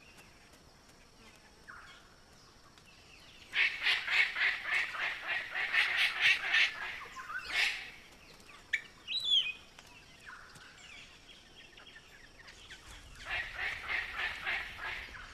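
Palm cockatoo calling: a run of rapid, harsh, repeated calls, a short rising whistled call a little later, then another run of harsh calls near the end.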